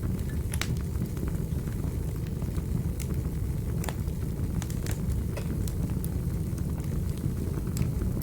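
Wood fire burning in a fireplace: a steady low rumble of flames with irregular sharp pops and crackles of the burning wood, about one every second or so.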